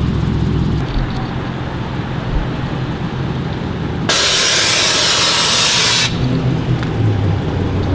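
Low rumble of vehicle engines running, with a loud, steady hiss about four seconds in that lasts around two seconds and cuts off sharply.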